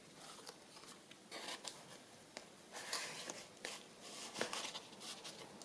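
Paper and card rustling and sliding as small journal cards are pushed into a paper pocket, with a few light taps and clicks.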